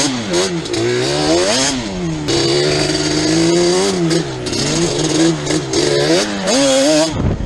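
Yamaha Banshee 350 quad's twin-cylinder two-stroke engine revving up and down as it is ridden, holding a steady pitch for a couple of seconds in the middle. The sound cuts off abruptly near the end.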